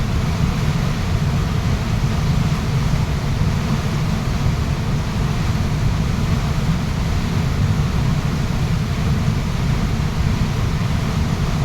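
A waterfall rushing: a steady, unbroken wash of falling water, heaviest in the deep low end.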